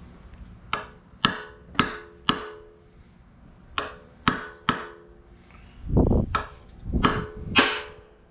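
A hammer striking metal about eleven times in three short groups of taps, most blows leaving a brief metallic ring, the last ones heavier and duller. The blows are tapping a seal carefully into place.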